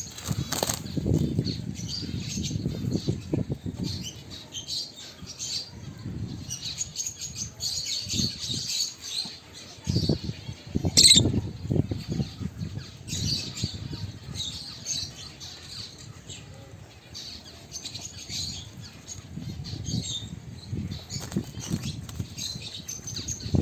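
Caged albino peach-faced lovebirds fluttering their wings in repeated bursts, with high chirps throughout and one sharp, loud call about 11 seconds in.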